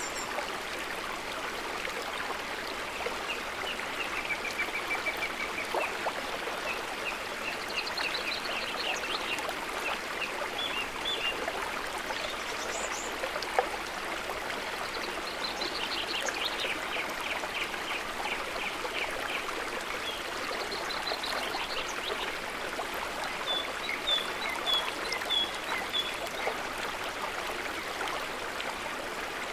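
Steady rushing of a stream or small river, with runs of short, high chirping calls over it at several points.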